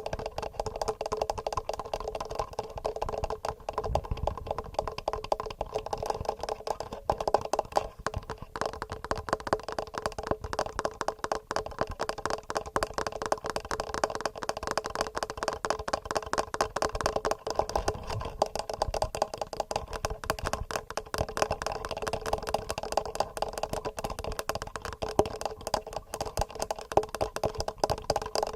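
Fast, regular fingernail tapping on a TASCAM recorder's microphones: a dense, steady stream of small clicks, many per second, close to the mics.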